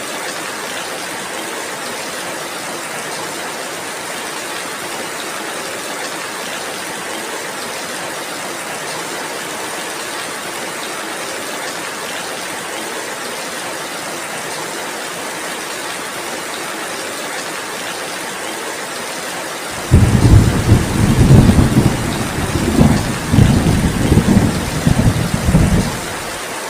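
Heavy rain falling in a steady hiss, with a loud rolling rumble of thunder that starts suddenly about twenty seconds in, swells in several waves for about six seconds and ends shortly before the end.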